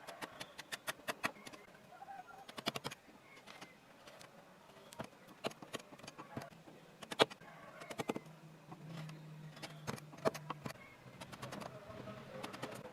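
Wood carving by hand: sharp taps of a mallet on a carving chisel cutting into wood, in quick runs of several taps a second with short pauses between them, one tap much louder about seven seconds in.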